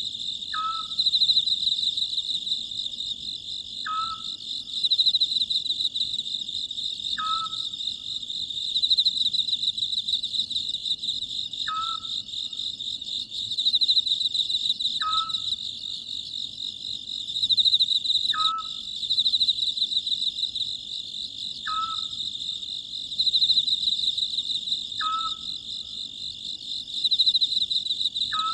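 Oriental scops owl calling, a short falling note repeated about every three seconds, over a steady, high chorus of crickets that swells and fades.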